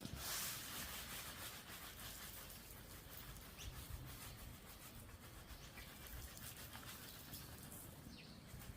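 Faint, steady outdoor background hiss with a few faint, brief bird chirps.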